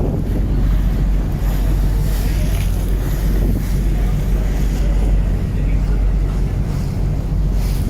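Steady low drone of a river cruise boat's engine, with wind buffeting the microphone and water rushing past the hull.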